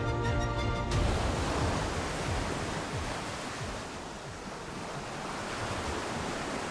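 Background music ends about a second in, giving way to a steady wash of ocean waves and surf.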